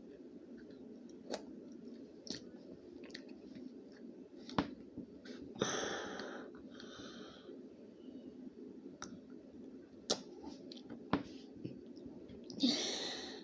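Someone chewing a sour candy: scattered sharp mouth clicks and smacks, with two louder rushing noises, about six seconds in and near the end.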